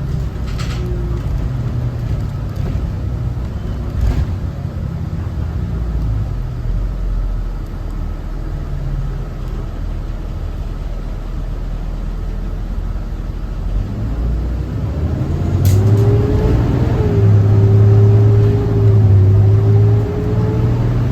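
Cummins ISB 6.7 diesel engine of a Thomas Saf-T-Liner C2 school bus running on the road, a steady low rumble at first. About fourteen seconds in it accelerates, its whine rising in pitch and the engine getting louder. A few light clicks come through now and then.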